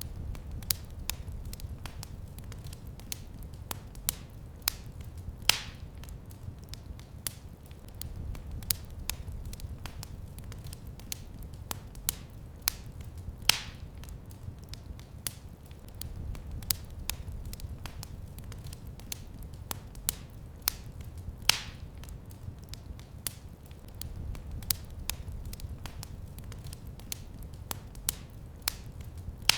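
Fireplace fire crackling steadily, with a louder pop every eight seconds or so, over a low steady rumble.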